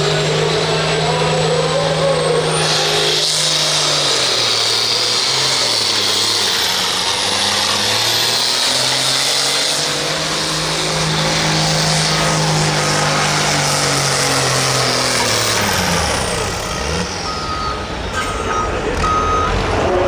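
Turbocharged diesel farm tractor engine at full power pulling a sled, with a high turbo whine rising over it. The engine note holds, sags, then recovers. Near the end it drops off, and a few short beeps follow.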